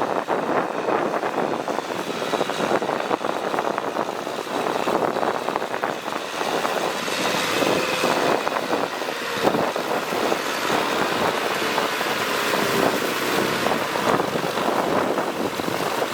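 Kubota tractor's diesel engine running steadily under load while plowing through mud.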